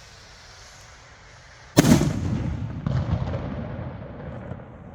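Firework rocket bursting with one sudden loud bang about two seconds in, its rumbling echo slowly dying away. A smaller second report follows about a second later.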